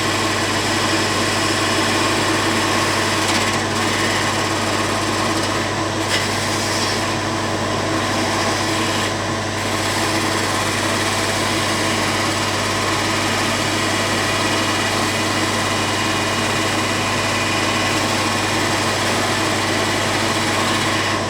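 An electric power tool running steadily without stopping, a low hum under a hiss.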